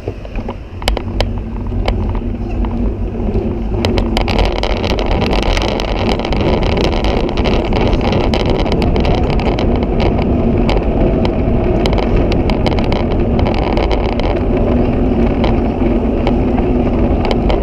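Wind rushing over the microphone of a moving bicycle, with a run of sharp clicks and rattles in the first few seconds. The rush grows louder over the first four seconds, then holds steady.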